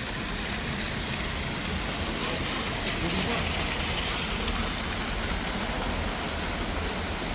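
Steady noise of heavy rain falling, over a low rumble.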